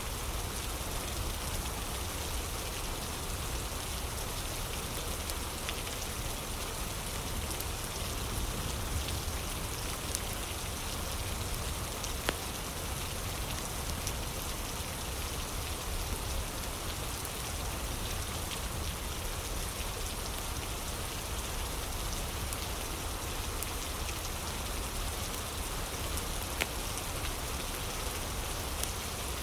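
Steady rain ambience with scattered sharp crackles of a fire.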